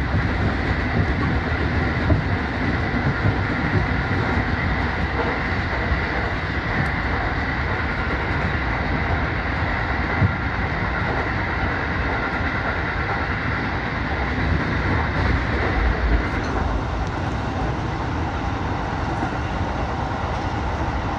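Keiyo Line commuter train running at speed, heard from inside the driver's cab: a steady rumble of wheels on rail with a few light clicks of the track. A high steady whine runs over the rumble and stops about three-quarters of the way through.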